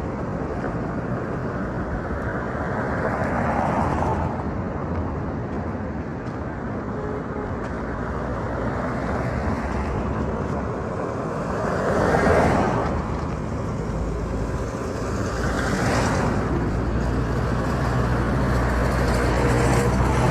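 Road traffic: a steady low rumble with vehicles passing by, swelling and fading three times, the loudest about twelve seconds in.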